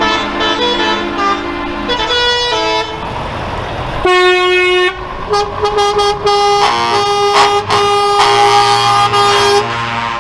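Truck air horns sounding, several at different pitches overlapping in long and short blasts, with one long loud blast about four seconds in.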